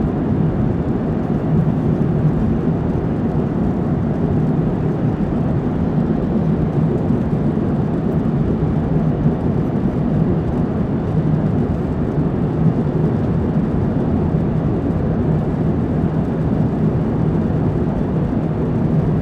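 Airliner cabin noise in flight: the steady roar of engines and airflow heard from inside the passenger cabin, with a steady low hum under it.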